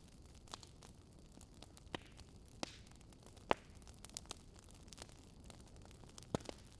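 Wood fire crackling: scattered sharp pops at irregular intervals over a faint steady hiss, the loudest pop about halfway through and another near the end.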